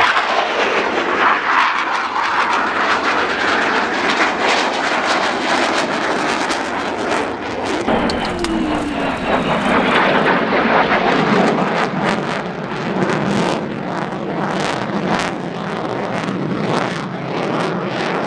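Display jet aircraft roaring overhead in a continuous loud pass, its pitch sliding downward a little past halfway through as it goes by.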